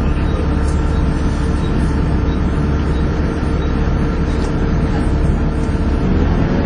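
Volvo B7TL double-decker bus's six-cylinder diesel running hard, heard from on board, with a steady low rumble and the whining 'hoover' tone over it. Near the end the pitch of the engine shifts as the revs change.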